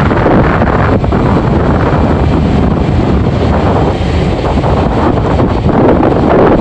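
Strong wind buffeting a mobile phone's microphone aboard a boat under way, a loud, steady rumble and roar.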